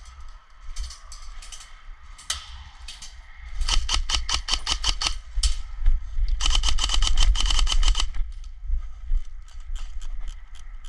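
Airsoft electric gun firing two bursts on full auto, each a rapid even clatter of shots over a steady gearbox whine. The first burst starts about three and a half seconds in and lasts about two seconds; the second follows about a second later and lasts under two seconds. Scattered single clicks fall before and after the bursts.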